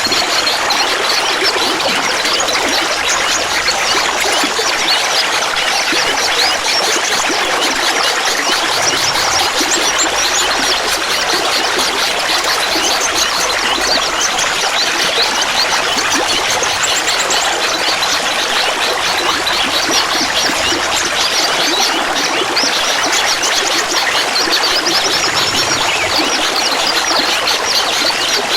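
Clear water trickling and babbling steadily, a dense patter of small splashes and gurgles with no pause.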